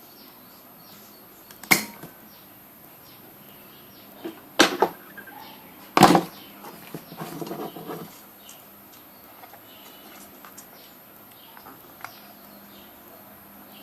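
Three sharp knocks within about four seconds; the last and loudest is followed by a second or two of clattering. Faint steady background.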